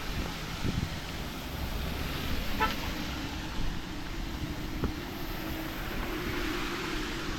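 A car going by on a wet road over a steady rush of rain, with a short horn toot about two and a half seconds in.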